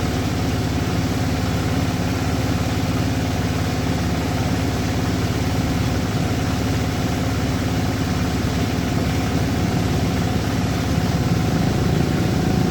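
An engine running steadily with a constant hum, no change in speed.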